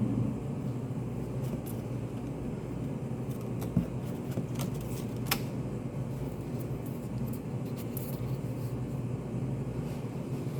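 Study cafe room tone: a steady low hum with a few light clicks and taps scattered through it, the sharpest nearly four seconds in and just after five seconds.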